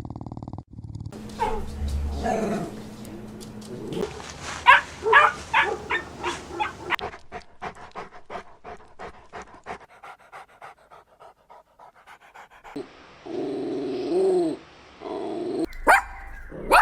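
Puppy panting rapidly in quick, even breaths that fade away, with short high whimpers in the first seconds, a lower whine later, and sharp yips near the end.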